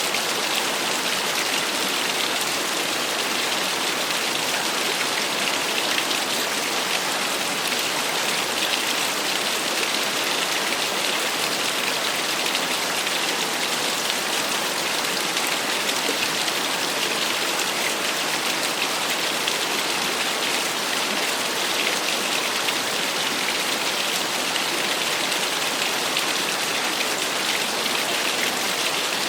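Small waterfall: water falling and splashing in a steady, unbroken hiss with a fine patter of droplets.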